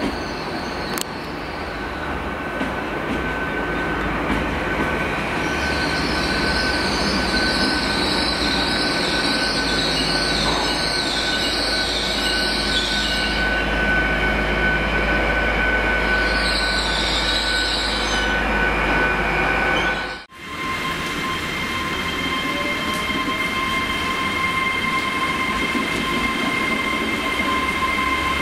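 Great Western Railway Class 800 train running past along the platform with a steady rumble and whine. A wavering high-pitched wheel squeal rises from about five seconds in, breaks off, returns briefly and stops. After a brief dropout about twenty seconds in, the train runs on with steady whining tones.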